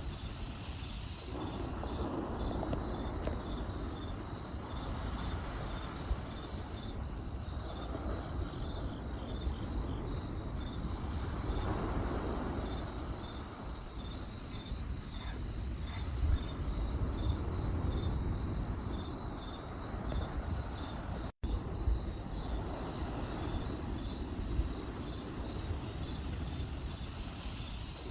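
Crickets chirping in a steady, rapidly pulsing high trill over a campfire's low, swelling rumble, with occasional sharp crackling pops from the burning wood.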